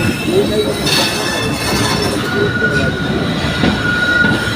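Passenger train moving slowly along the platform, its steel wheels squealing on the rails with a steady high-pitched squeal over a dense rumble. The squeal fades for a moment in the first half and then comes back.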